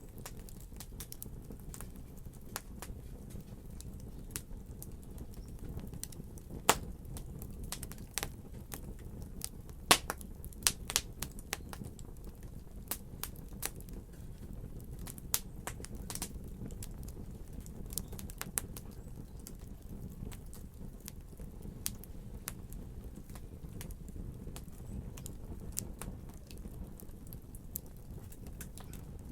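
Wood fire crackling, with a low steady rumble of burning and many irregular sharp pops and snaps. They come thickest in the middle, and the loudest pops fall about 7 and 10 seconds in.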